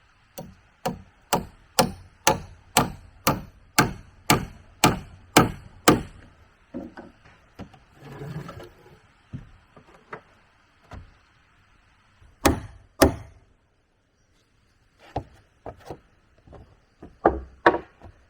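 A tool striking wood in a steady run of about a dozen hard blows, roughly two a second. Then come lighter scattered knocks and a brief rustle, two more hard blows in quick succession, and a few lighter knocks near the end.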